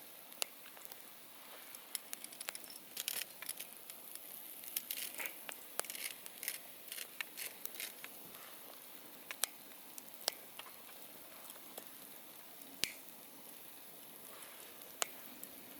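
Wood campfire crackling: irregular sharp pops and snaps over a soft steady hiss, most frequent in the middle stretch.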